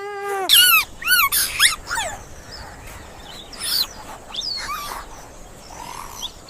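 High-pitched animal cries: a quick run of loud, arched yelps or squeals in the first two seconds, then a few fainter ones a little later.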